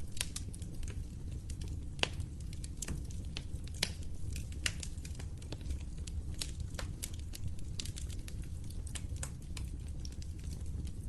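Wood fire in a fireplace crackling: irregular sharp pops and snaps, several a second, over a steady low rumble of the flames. The loudest snap comes about two seconds in.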